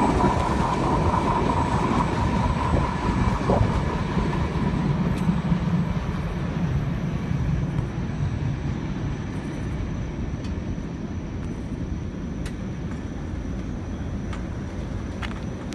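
Freight train cars rolling past on the rails, a steady rumble with a faint wheel squeal in the first few seconds, growing gradually quieter as the train moves away.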